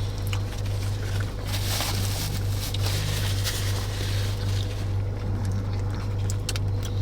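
Steady low hum of a car's engine idling, heard from inside the cabin, with a few faint rustles and clicks.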